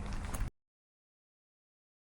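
Footsteps with steady outdoor background noise, cut off abruptly about half a second in, followed by dead digital silence.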